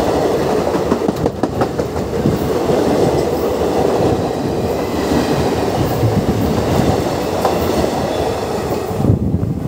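Passenger express coaches rolling past on the adjacent track, heard from an open train window: a steady rush of wheel and rail noise with clickety-clack over the rail joints.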